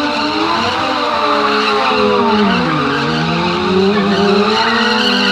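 A car engine running and revving. Its pitch sags around the middle and climbs again toward the end.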